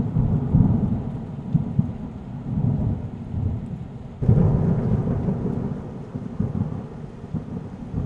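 Thunder rumbling in two rolls: one is already fading at the start, and a second breaks suddenly about four seconds in and dies away slowly.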